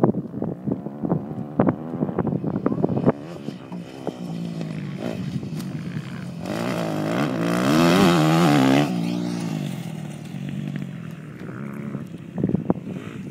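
Motocross dirt bike engines revving up and down as riders work the throttle around the track, loudest from about six to nine seconds in as a bike passes close. Sharp crackles come through in the first few seconds and again near the end.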